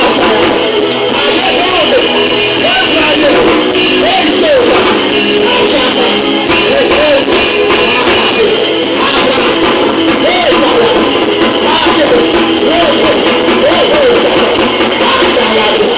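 Live worship music: a voice singing a melody over a band with guitar, loud and steady throughout.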